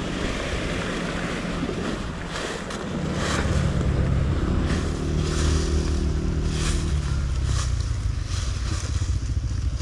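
KTM EXC-F 250 single-cylinder four-stroke enduro engine under way. It runs at low revs, picks up about three seconds in, holds a steady higher note for a few seconds, then eases back. Wind noise on the microphone throughout.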